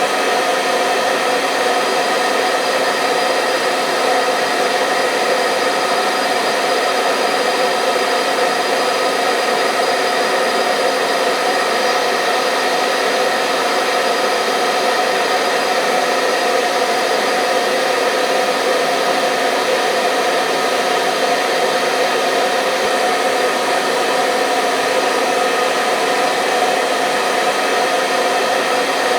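Hair dryer running steadily: a continuous even whoosh of blown air with a faint steady motor hum.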